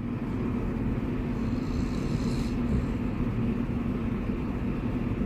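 A steady low rumble with a constant hum, like a running vehicle or motor.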